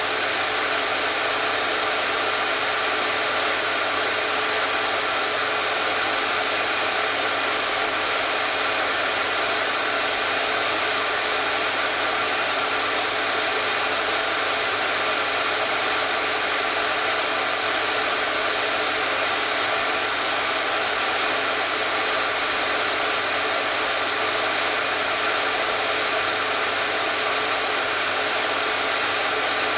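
Hair dryer running steadily, a constant airy whoosh with a faint motor hum, unchanging throughout.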